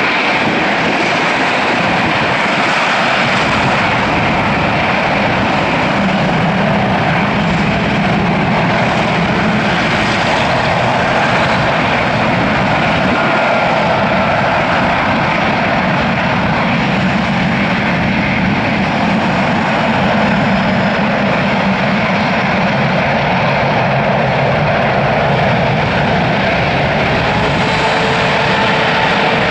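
Boeing 777-300ER jet airliner's GE90-115B turbofan engines giving a loud, steady roar, with a faint tone rising slightly near the end.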